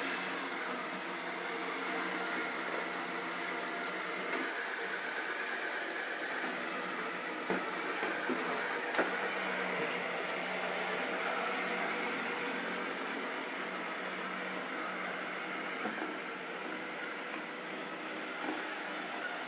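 Robot vacuum cleaner running, a steady motor and brush whirr with a constant low hum, and a few short knocks along the way.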